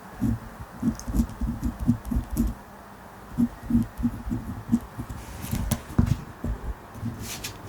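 Ballpoint pen writing in a notebook: quick runs of soft taps and strokes, about four or five a second, in three bursts with short pauses between them.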